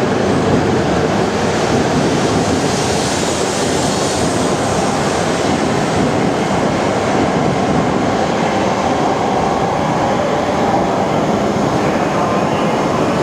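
Tohoku Shinkansen bullet train moving along the station platform: a steady, loud rush of wheel and air noise, with the high hiss swelling a few seconds in.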